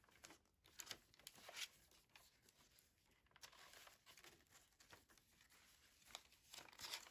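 Faint rustling and light taps of paper journal pages and card being handled and turned.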